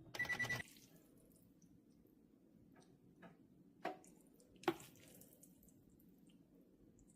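Microwave oven beeping: a quick run of short high beeps, followed by a few light clicks and knocks.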